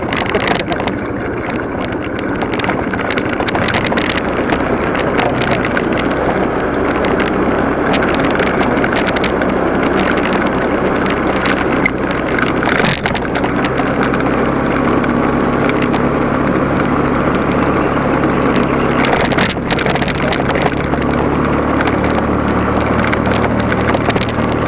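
Motorcycle engine running while riding, its note shifting up and down in steps a few times, with wind rushing over the microphone.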